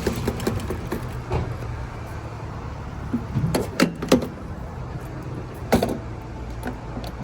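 Gasoline pump nozzle being squeezed and clicked in short bursts to top off the tank after the automatic shutoff, a handful of sharp clicks and clunks over a steady low hum.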